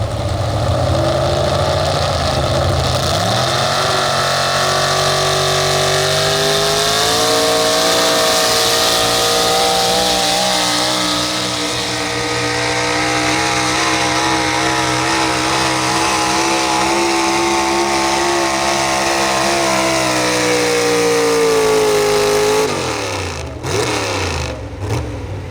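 Pro stock 4x4 pulling truck's engine at full throttle during a pull: the revs climb early on, then hold high with a fast wavering pitch. About 23 s in the engine note falls away sharply.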